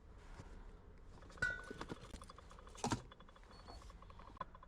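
Scattered light clicks and taps from handling a scan tool and its connector, with two louder knocks about a second and a half and three seconds in, the first with a short beep.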